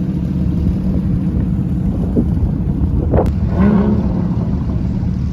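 Car engine running with a steady low rumble, with wind on the microphone. A sharp click about three seconds in, then a short pitched sound.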